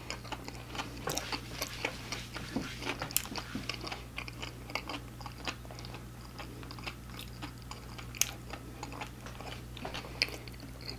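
Close-up chewing of crispy fried food, with many short crunches and wet mouth clicks at an uneven pace.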